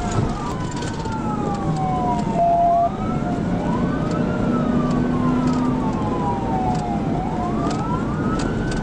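Police cruiser siren wailing, its pitch rising and falling in slow sweeps over the steady road and engine noise of a car at high speed, with a brief held tone about two and a half seconds in.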